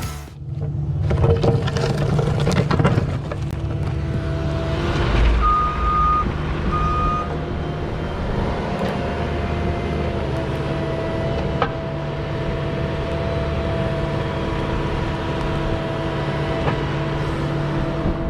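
Diesel engine of a piece of excavating equipment running steadily, with two short beeps about six seconds in.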